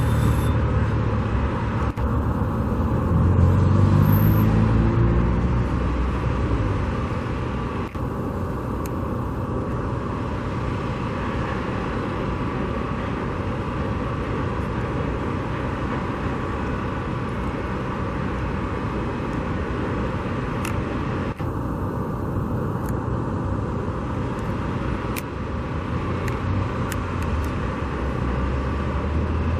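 Steady road traffic noise, with one vehicle's engine rising in pitch as it accelerates past about three seconds in.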